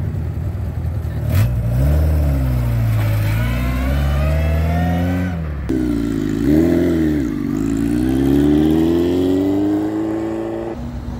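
A Mk1 Ford Escort Mexico rally car's engine pulling away, its revs rising, dipping at a gear change, then rising again. About halfway through, a motorcycle engine blips once, then its pitch climbs steadily for about three seconds as it accelerates away before cutting off abruptly near the end.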